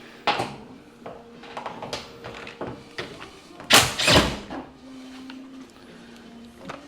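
Clunks and knocks of a car door being handled, with a sharp click near the start and one loud heavy thunk about four seconds in.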